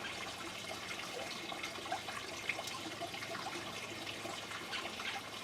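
Steady trickle of running water, with faint short bird chirps scattered through it.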